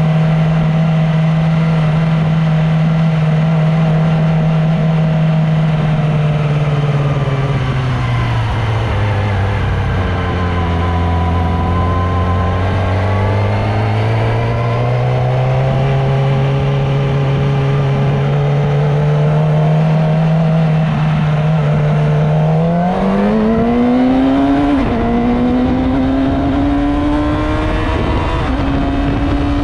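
Motorcycle engine running on the move: its pitch sags as the bike slows about a third of the way in, then climbs back. Near the end it revs up sharply, drops briefly at a gear change and climbs again, over a steady rush of wind and road noise.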